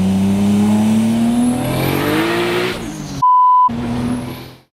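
A 700 hp 1998 Toyota Supra's 2JZ straight-six accelerating hard, its note rising steadily through a pull and then another. About three seconds in, a short censor bleep cuts in, then the engine sound returns briefly and fades out just before the end.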